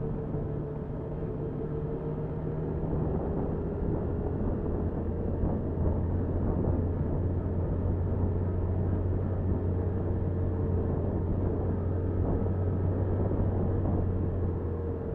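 Motorcycle engine running under way, heard through the bike's dashcam with wind and road noise. Its low drone shifts to a deeper, louder note about three seconds in and goes back up near the end.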